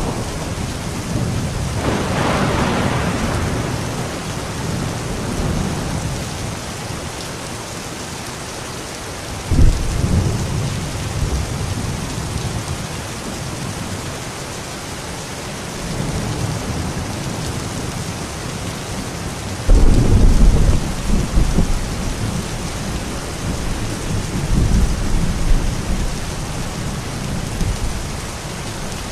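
Steady rain with thunder. Rumbles roll in a couple of seconds in, a sharp clap comes about ten seconds in, and the loudest, longest low rumble comes around twenty seconds in, with another a few seconds later.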